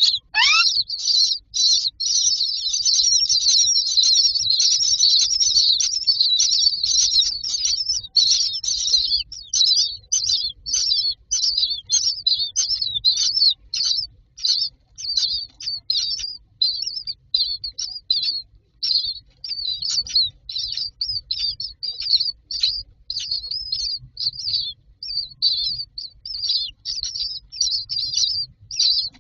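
Common myna chicks begging in a nest box with high-pitched chirping. It is a dense, unbroken run for the first nine seconds or so, then breaks into quick separate chirps, about two to three a second. A single rising call comes right at the start.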